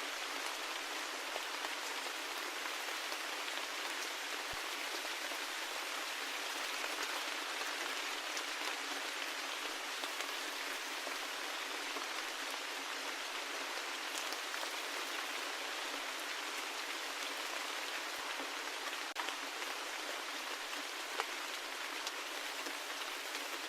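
Steady rain: an even hiss of falling rain with scattered sharper drop ticks, and no deep rumble.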